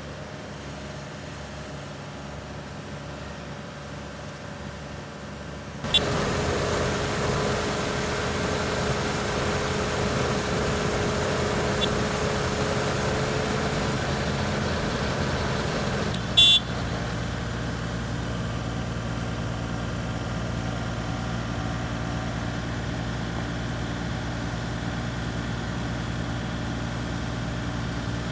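Vehicle engine running at idle. About six seconds in, a louder rushing noise with a steady tone comes in, and about ten seconds later it cuts off with a short sharp clunk, leaving the idle.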